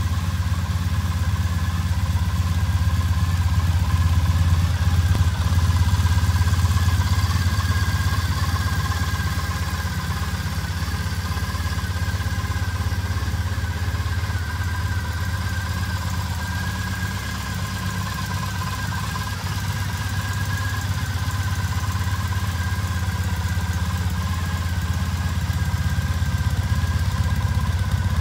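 A 2014 Triumph Bonneville T100's 865 cc air-cooled parallel-twin engine idling steadily.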